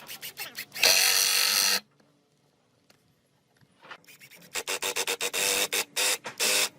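A hand tool rubbing and scraping along wood: one long stroke about a second in, then a quick run of short strokes near the end.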